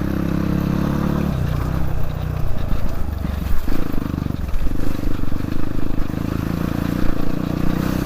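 Dirt bike engine running under way, its note dropping and picking up again several times as the throttle changes.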